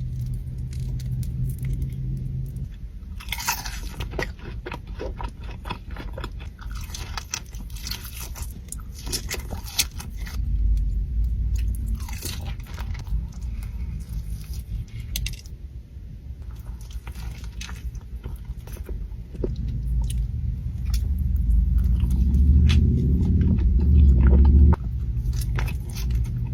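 Close-miked eating: repeated crunchy bites and chewing of Chili's Triple Dipper fried appetizers. A heavy low rumble builds near the end and cuts off suddenly.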